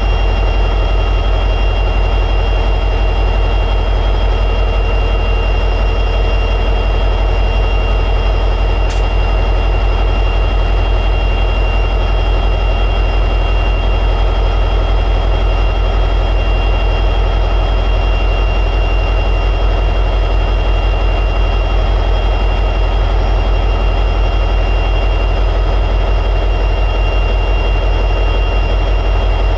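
EMD 710G3B 16-cylinder two-stroke diesel prime mover of an SD60E locomotive running steadily in high idle, with a steady high whine over the low engine note. There is one brief click about nine seconds in.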